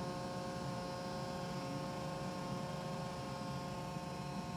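Roomba j7+ robot vacuum running, a steady motor and fan hum with several steady tones.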